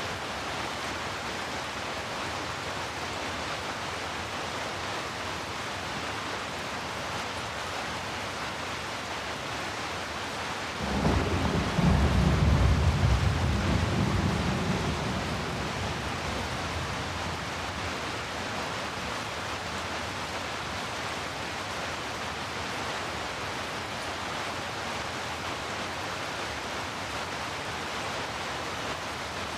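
Steady rain hissing throughout. About a third of the way in a low roll of thunder breaks in suddenly, is loudest for a few seconds, then rumbles away.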